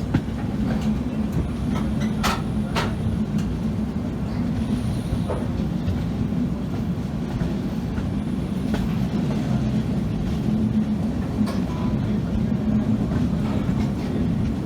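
Passenger train running, heard from inside the coach: a steady rumble and hum, with occasional sharp clicks and knocks.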